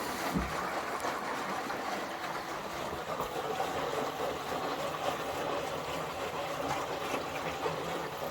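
Indesit 9 kg washing machine mid-wash: water rushing and sloshing in the drum as it turns, while the machine takes in more water. A steady, even wash noise with no clear breaks.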